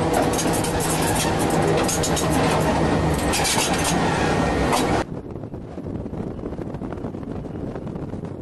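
Electric train of the Chemin de fer de La Mure running along the track: a loud steady rumble and hum with rapid clicks and rattles from wheels and carriage. About five seconds in it cuts off abruptly to a much quieter steady rush, like wind on the microphone.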